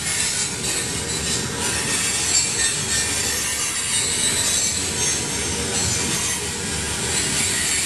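Freight train rolling past, a steady rush of wheel and rail noise.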